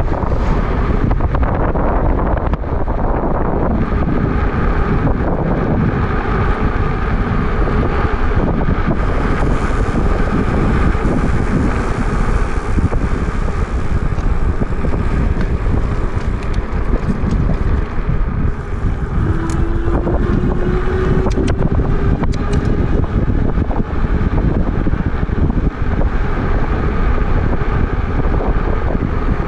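Wind buffeting the microphone of a moving e-bike, a steady low rumble, with a faint rising whine for a few seconds past the middle.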